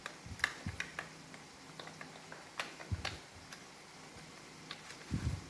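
Irregular light clicks and taps of hard plastic parts of a Roomba robot vacuum being handled and fitted together by hand, with a few dull low knocks, the heaviest near the end.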